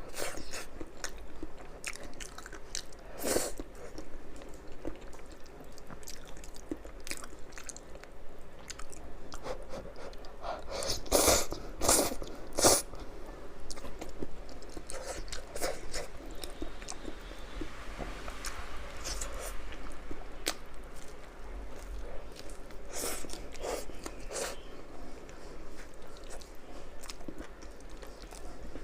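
Close-miked eating: a person biting, chewing and crunching crispy food, with many small crackles and a cluster of loud crisp crunches about eleven to thirteen seconds in.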